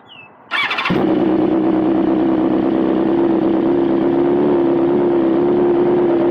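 BMW S1000RR inline-four with a full Akrapovic GP titanium exhaust system (headers and titanium silencer) being started: a brief starter crank, the engine catching about a second in, then idling steadily and loudly. The rider calls it too loud.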